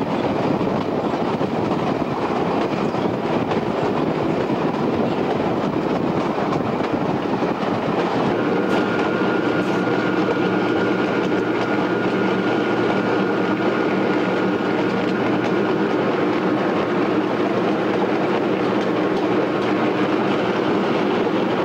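Metre-gauge diesel train running: steady noise of the wheels on the rails and the locomotive's engine. About eight seconds in, a steady engine drone with a faint high whine comes through more clearly.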